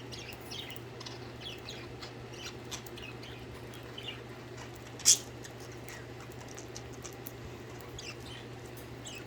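Pet budgerigars chirping in short, scattered chirps over a steady low hum. A single sharp click about five seconds in is the loudest sound.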